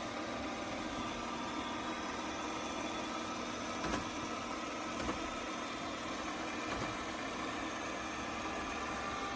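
Robot vacuum running with a steady motor hum and whir, with a few light knocks about four, five and seven seconds in.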